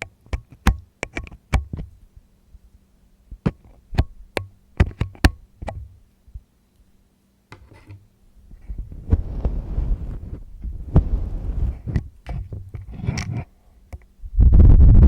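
Close-miked ear-cleaning ASMR: scattered sharp clicks and taps of a tool against the microphone, then a pause, then a few seconds of scratchy rubbing, and near the end a sudden very loud, low rumbling rub right on the mic.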